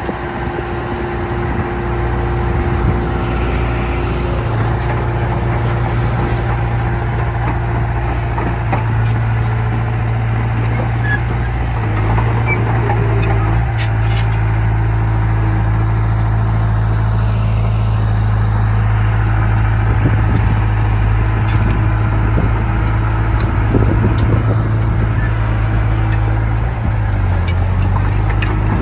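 Heavy diesel engine of earthmoving machinery running steadily and loud, with a few short knocks. Its note dips briefly near the end.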